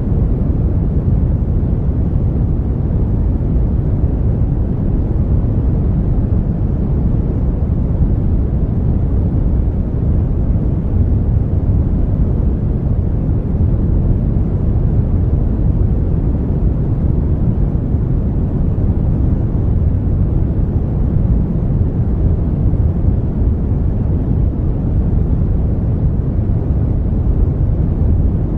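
Brown noise: a steady, deep rumbling hiss with most of its weight in the low end and little above a few hundred hertz, even and unchanging throughout.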